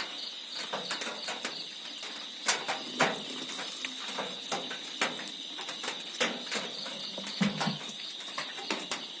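Crickets trilling steadily at a high, even pitch, with frequent irregular clicks and knocks over the top.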